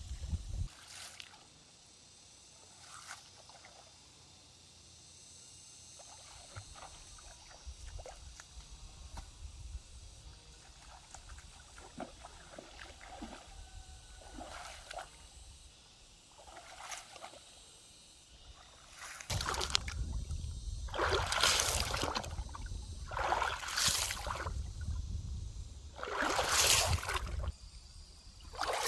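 Water sloshing and splashing in a shallow stream: small scattered splashes and trickles at first, then several louder splashes, each about a second long, every two to three seconds in the last third.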